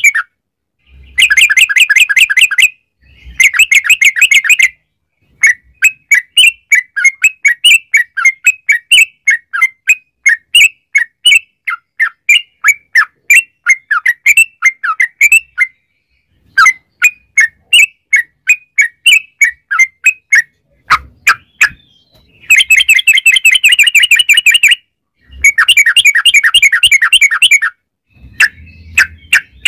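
Yellow-vented bulbul (trucukan) singing: loud bursts of rapid trilled chatter, each a couple of seconds long, alternating with long runs of quick separate chirps.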